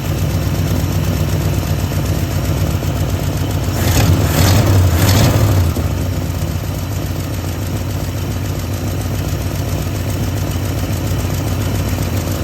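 1973 Ford F100's V8 engine running just after a tune-up, steady at first, then revved once from about four seconds in for two seconds before settling back. It runs rough, which the owner puts down to worn plug wires.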